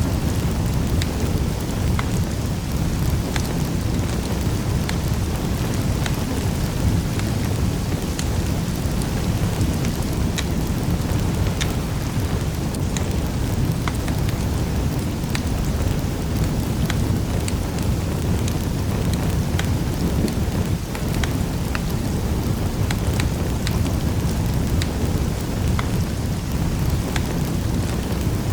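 Wood fire crackling in a fireplace: a steady low roar of flames with scattered sharp pops and snaps at irregular intervals.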